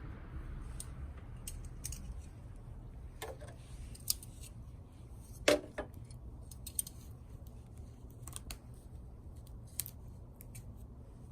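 Small twig fire crackling in a mini stainless fire stand: irregular sharp snaps and clicks, one louder pop about five and a half seconds in, over a low steady rumble.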